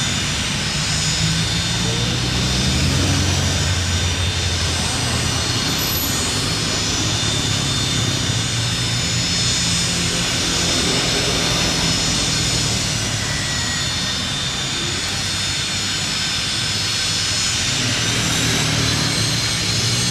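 Private jet's engines running steadily: a constant rush of noise with several high, steady whining tones on top.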